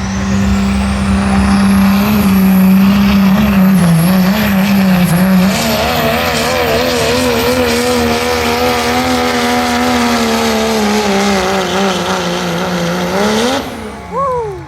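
Diesel pickup engine at full throttle in a truck pull, with a high whine climbing at the start and a pitch that wobbles as the truck fights the sled. Near the end the throttle is lifted and the engine drops away suddenly.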